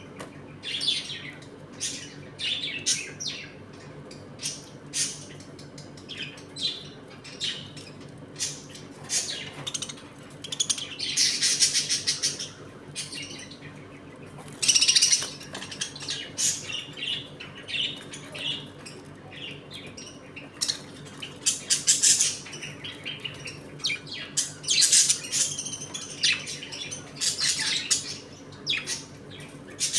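A colony of budgerigars chirping in quick short calls throughout, with several louder bursts of chattering warble.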